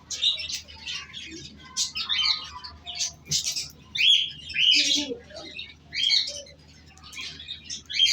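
Pet cockatiel chirping: a run of short, high calls, some sliding in pitch, with brief gaps between them.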